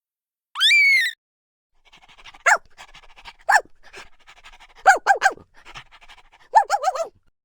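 Dog panting rapidly, with a short high whine under a second in and several short yelps that fall in pitch, some in quick runs of three.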